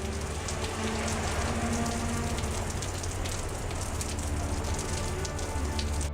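Heavy tropical rain pouring down, with many individual drops pattering close by, over a steady low hum.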